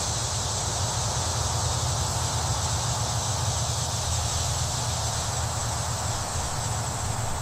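A steady, even hiss over a low hum, starting and cutting off abruptly.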